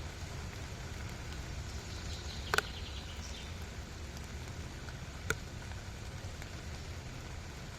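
Steady rain falling, an even hiss with a low rumble beneath it, broken by two sharp clicks a few seconds apart.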